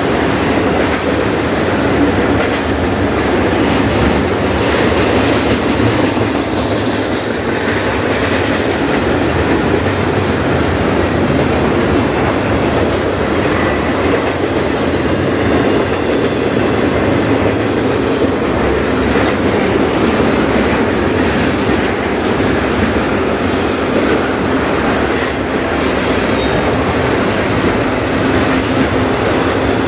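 Double-stack intermodal container cars of a freight train rolling past, with a steady loud rumble of steel wheels on rail broken by irregular wheel clicks over the track.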